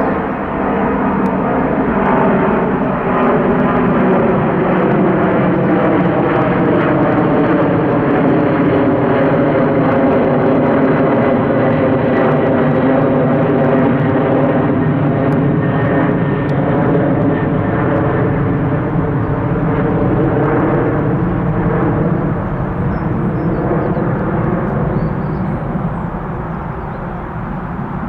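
Airbus A300-600R's twin turbofan engines at takeoff power as the jet climbs away: a loud, steady rushing roar with tones that slowly shift in pitch, easing off slightly near the end.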